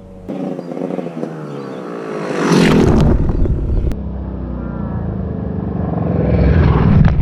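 Two-stroke dirt bike engine being ridden: it starts fairly quiet with the pitch dropping, revs hard about two and a half seconds in, then runs more steadily and builds louder toward the end.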